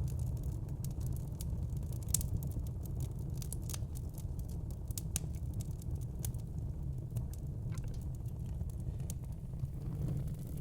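Wood fire crackling in a fireplace: a steady low rumble of the burning, with many sharp pops and snaps scattered throughout and a louder snap about two seconds in.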